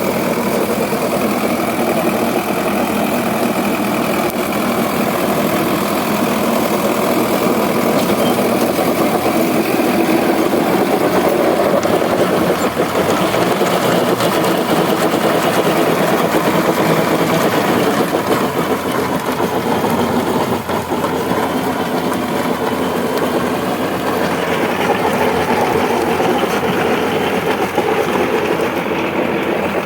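Sonalika DI 750 tractor's diesel engine running steadily.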